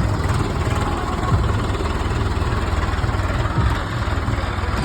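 Diesel tractor engine running steadily, a loud, even low rumble.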